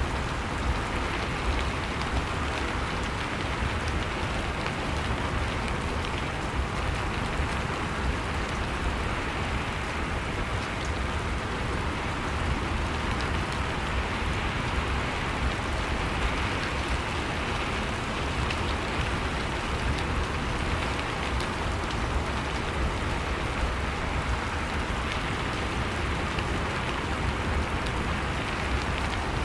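Steady rain falling: an even hiss full of small drop hits, holding at the same strength without letting up.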